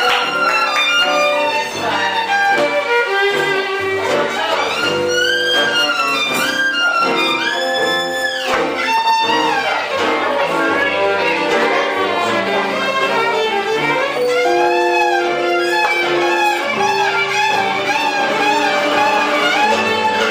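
Live band music led by a violin playing melodic lines with long sliding notes that swoop up and down about midway through.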